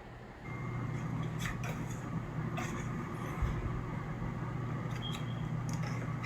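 A steady low machine hum, like an appliance or fan motor, switches on about half a second in and keeps running. Scattered light clicks and taps from beads, yarn and scissors being handled sit over it.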